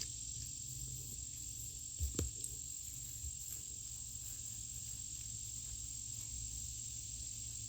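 Faint, steady high-pitched insect trill, like crickets, over a low background hum, with a couple of soft knocks about two seconds in.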